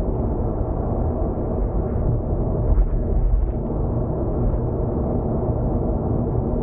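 Steady low road and tyre rumble inside a car cruising on an expressway, with a few brief louder bumps about three seconds in.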